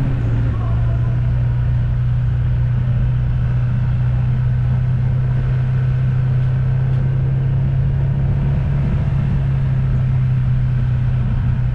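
Motor vehicle travelling at steady speed: an even low engine drone over road rumble.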